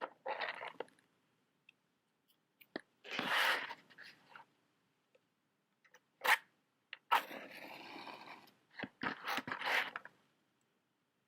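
Matches and a matchbox being scraped and handled: several short scraping, crunching sounds with a few sharp clicks in between, the sharpest about six seconds in.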